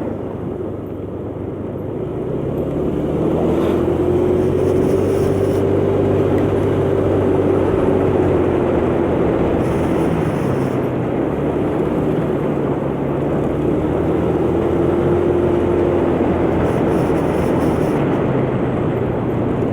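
125cc motor scooter engine running under way, its pitch rising and falling gently as the throttle and speed change, with heavy wind and road noise over it.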